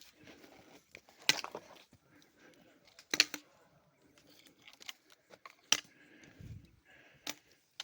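Slow footsteps crunching on a stony mountain path, four sharp steps about one and a half to two seconds apart with lighter scuffs between.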